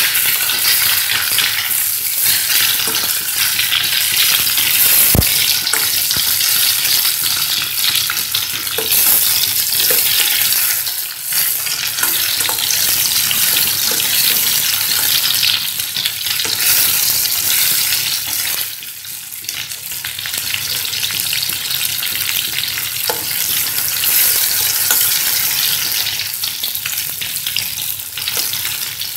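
Chopped tomatoes, shallots and curry leaves sizzling in hot oil in a stainless steel kadai as they are sautéed and stirred with a spatula: a steady frying hiss with a small pop now and then.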